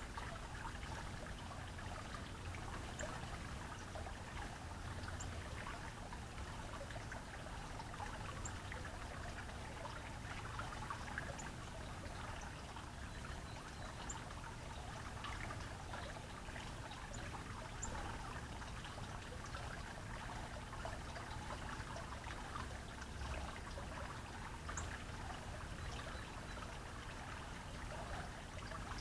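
Water trickling steadily, with a few faint, very short high-pitched marks scattered through it.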